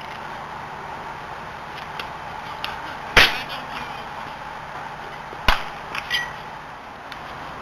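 Two sharp smacks of a baseball, about two seconds apart, with a few lighter clicks just after the second, over steady field noise.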